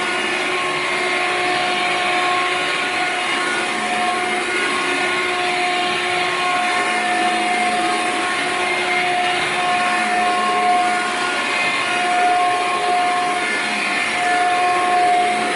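Hoover Air Cordless 20-volt stick vacuum running steadily: a motor whine with a few steady tones over the hiss of rushing air.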